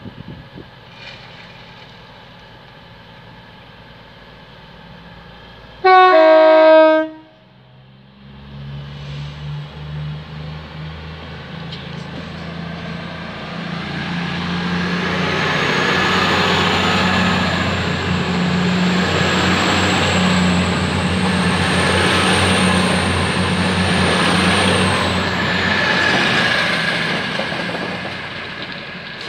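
Class 222 Meridian diesel multiple unit sounds its two-tone horn once, about six seconds in: a loud blast of about a second, a high note stepping down to a lower one. The train then passes, its diesel engines running under a high whine that rises and then drops away. The passing noise builds to a loud stretch of about ten seconds and fades near the end.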